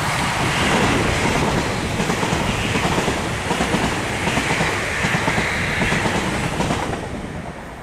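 A Class 350 electric multiple unit passing at speed, its wheels clattering rapidly over the rail joints. The noise builds, holds, then fades away near the end as the train recedes.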